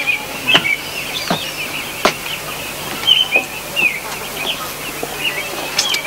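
Small birds chirping continuously in quick, wavering notes, with a few sharp clicks here and there.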